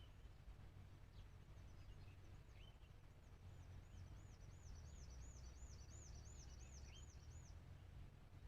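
Faint birdsong: a quick run of about a dozen high, arched whistled notes from about three seconds in until past seven seconds, with a few single short rising chirps, over a steady low rumble.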